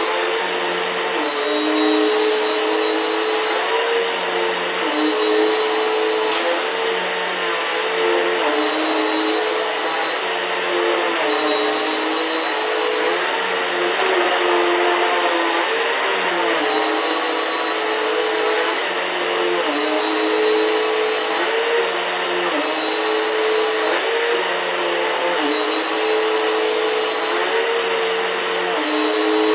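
Eureka PowerSpeed upright vacuum cleaner running steadily with a high whine. Its motor tone dips and recovers about every two seconds as it is pushed back and forth, with occasional faint clicks.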